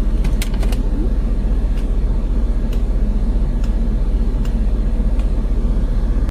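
A steady low rumble, with a few sharp clicks about half a second in.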